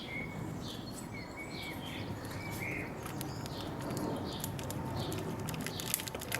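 Small birds chirping repeatedly in the background, short high chirps every half second or so, with a few faint clicks from parts being handled.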